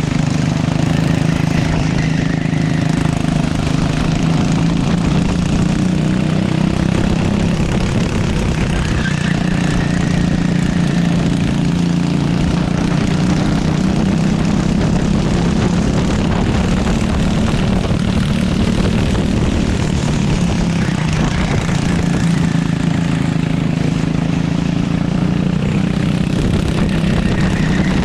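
Racing kart engine running hard and steadily, its pitch drifting up and down a little as the revs change through the corners.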